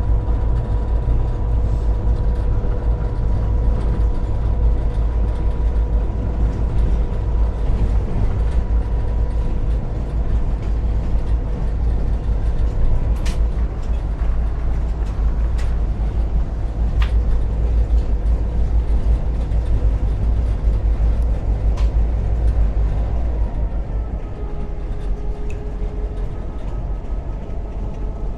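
The EMD 16-645 two-stroke V16 diesel engine of a GP38-2 locomotive, running and heard from inside the cab as a steady low rumble with a hum over it. There are a few sharp clicks midway, and the tone of the drone shifts near the end.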